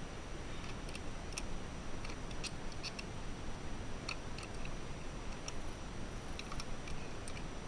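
A dozen or so light, sharp clicks and taps at uneven intervals over a low steady background hum.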